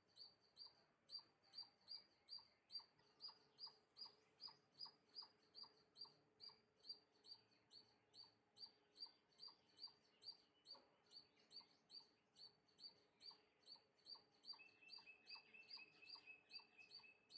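A small bird chirping a high, even note over and over, a little more than two chirps a second. A second, lower chirp joins in near the end.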